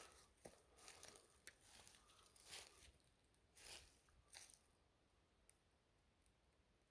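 Faint, irregular rustling and crackling noises during the first four and a half seconds, then near silence.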